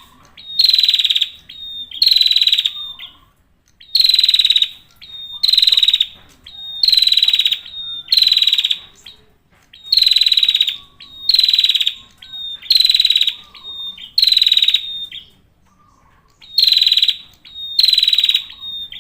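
Male prinia (prenjak) singing, a loud buzzy trilled phrase repeated about every one and a half seconds, with one longer pause near the end.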